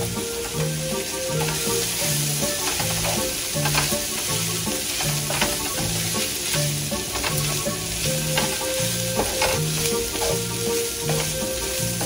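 Chopped chicken, onion, peas and carrots sizzling in oil in a nonstick frying pan while being stirred with a wooden spatula, the spatula scraping and tapping against the pan now and then.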